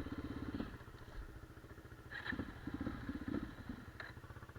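Enduro motorcycle engine running at low revs, with a few short louder bursts of throttle in the second half and a few light clicks.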